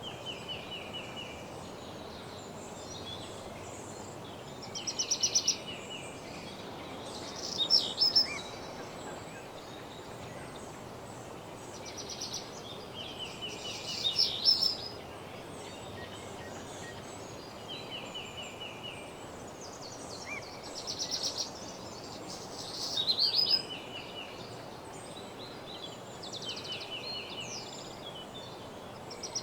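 Songbirds singing: short trilled phrases and higher whistled notes repeat every few seconds over a steady background hiss.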